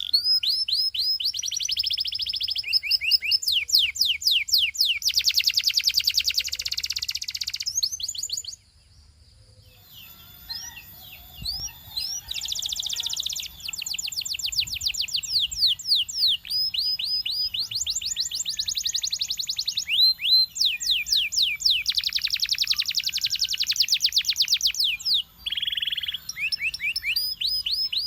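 Canary singing: long, fast trills of rapidly repeated high notes, one run after another, breaking off for about two seconds roughly a third of the way through before resuming.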